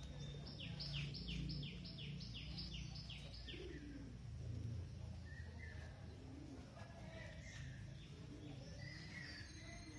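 A songbird singing a quick run of about nine downward-slurred whistled notes, roughly three a second, over the first few seconds, followed by softer scattered chirps. A steady low rumble runs beneath.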